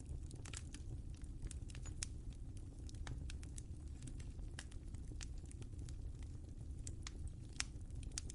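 Wood fire crackling in a fireplace: irregular sharp pops and snaps, several a second, over a steady low rumble of the flames, with one louder pop near the end.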